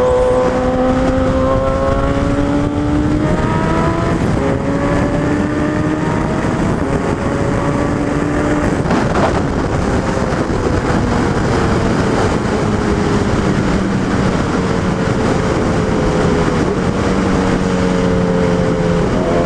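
Suzuki Hayabusa's inline-four engine running under way, with heavy wind rush. Its pitch climbs in steps over the first half, then falls slowly through the second half and picks up again at the very end.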